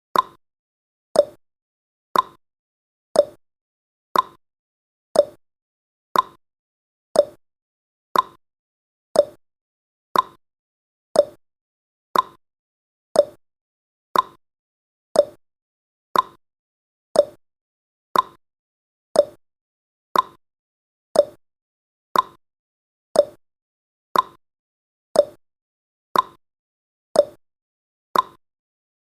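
Countdown timer's tick sound effect: a short click once every second, each dying away quickly, in a steady even rhythm.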